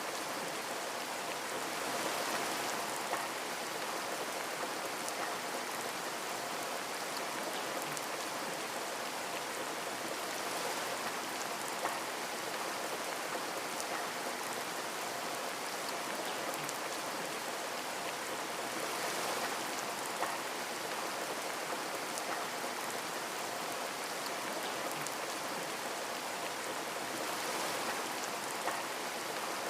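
Steady rain pattering on a window, with a few slightly louder drop ticks now and then.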